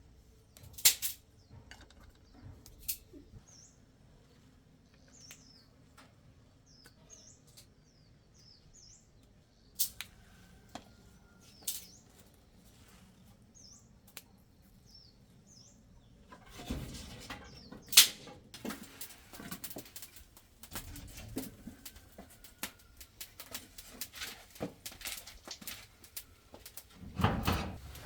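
Small birds chirping faintly with high little calls, among a few sharp snaps and clicks. About halfway through, rustling starts with a quick run of clicks and knocks, as of something being handled close by.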